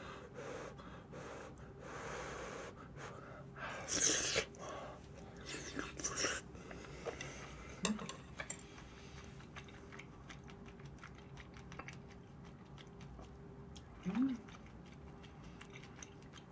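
A person chewing a big mouthful of cream-sauced udon noodles up close, with many small wet mouth clicks and two louder wet noisy bursts about four and six seconds in. Two brief low vocal sounds come near the middle and near the end.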